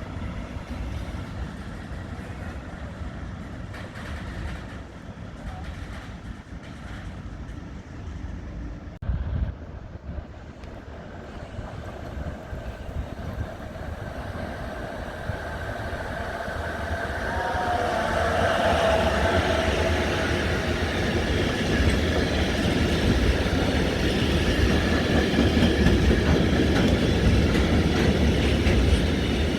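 A train on the station tracks: a quiet rumble at first, growing steadily louder from about halfway as the train comes close, then a loud, steady running noise of wheels on rails.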